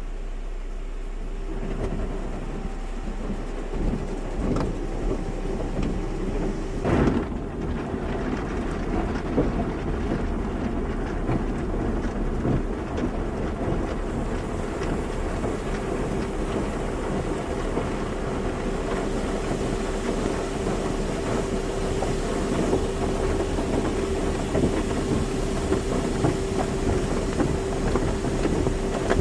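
Car wash machinery running: a dense rush of water spray and rumbling, clattering equipment, with a single knock about seven seconds in and a steady machine hum coming in about halfway through.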